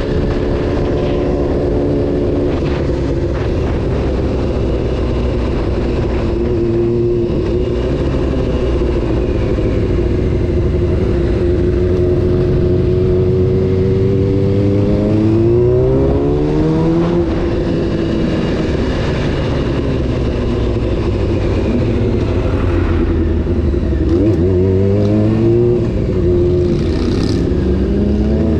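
Honda CBR600 F4's inline-four engine running under way, with wind and road noise. Twice, around the middle and near the end, the revs climb and then drop.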